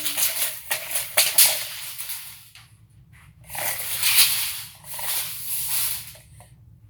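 Steel blade of a Komelon 25-foot tape measure sliding and rattling against its case, with sharp clicks, in one long rasping run and then three shorter runs.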